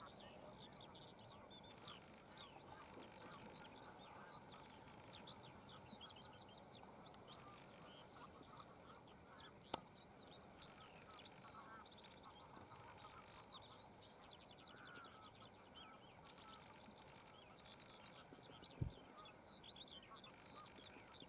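A faint, dense chorus of many birds calling, a mix of short chirps and calls overlapping throughout. A sharp click about ten seconds in and a low thump near the end.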